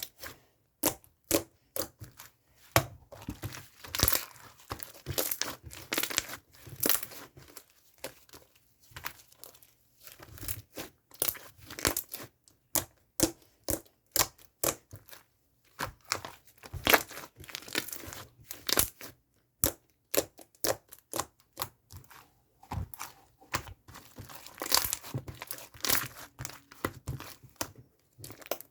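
Hands pressing and working a crinkly material: a continuous run of short, irregular crackles and crinkles, several a second, in uneven bursts.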